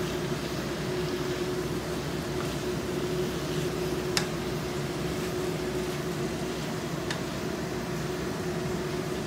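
Minced meat frying in a wok while being stirred with a wooden spatula, over a steady mechanical hum; two sharp clicks come about four and seven seconds in.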